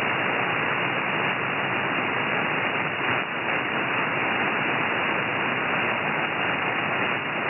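Static: the steady hiss of the band's noise floor, heard as receiver audio from an Anan software-defined transceiver through its sideband filter, which cuts off everything above about 3 kHz.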